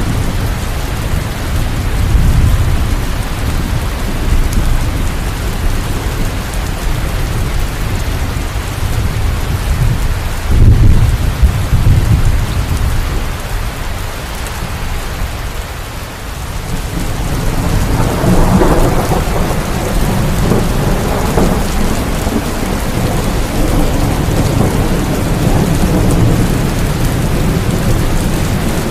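Steady heavy rain with rolling thunder rumbles. The thunder swells loudest about a third of the way in, eases off around the middle, then rumbles on again.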